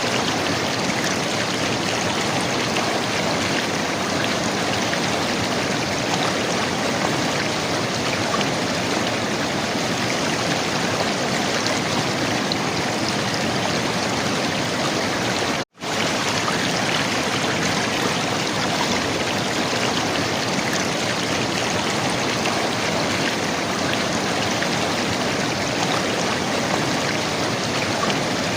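River water running and gurgling steadily, with a momentary cut to silence about halfway through.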